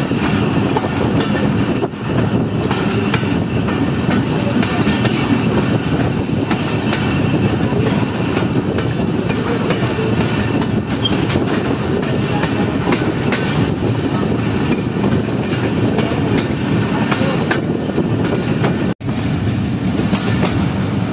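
Passenger train running along the track, heard from an open coach door: a steady rumble with the clatter of wheels over rail joints. The sound cuts out for an instant about two seconds before the end.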